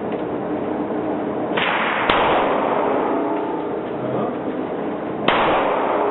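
Two pistol shots from a .40-calibre Glock 23c with a Lone Wolf aftermarket barrel, about three seconds apart, over a steady hiss.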